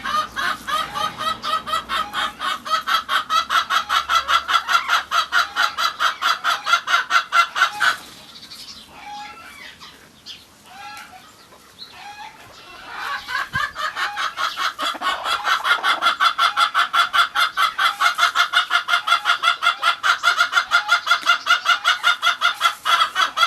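Chicken clucking in fast, even runs of about eight clucks a second. One long run lasts about eight seconds; after a few seconds of scattered softer calls, a second long run begins.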